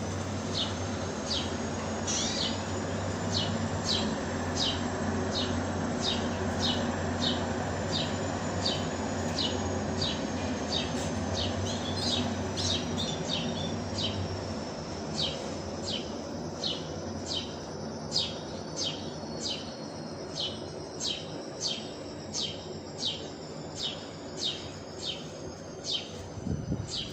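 A small songbird chirping over and over, short high chirps at about two a second, over a steady low hum that stops about halfway through.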